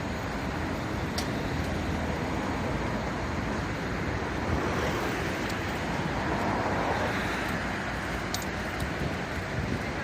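Steady road traffic noise with wind on the microphone, swelling for a couple of seconds around the middle as a vehicle goes by.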